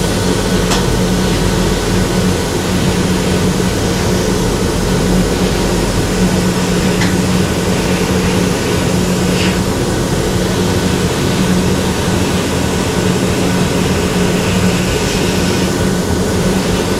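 Steady motor hum under a continuous air hiss from Cerakote spray equipment, with no break in the sound.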